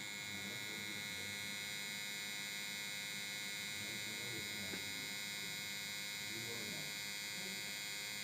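VGR V-228 cordless hair trimmer running, a steady, faint electric buzz that holds one pitch.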